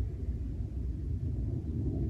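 Low, uneven rumble of wind buffeting the microphone, with no distinct events.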